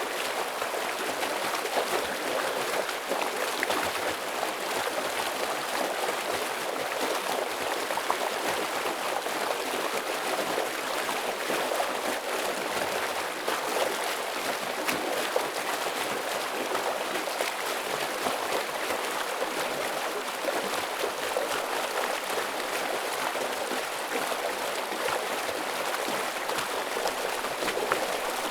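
A stream of water rushing steadily over rocks, a continuous splashing and gurgling flow.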